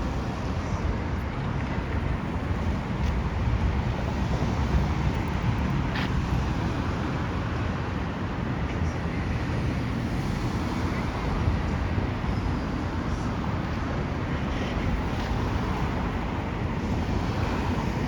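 Steady low rumble of city traffic, with wind buffeting the microphone.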